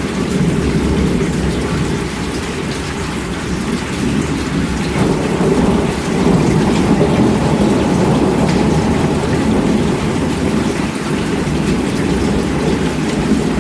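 Heavy rain falling steadily, with a low rumble of thunder that swells and grows louder about midway.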